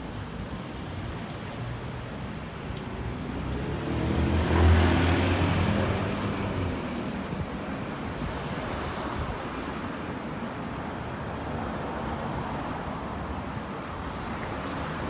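Steady street traffic noise, with one motor vehicle passing close by about four to six seconds in, its engine hum rising and then fading away.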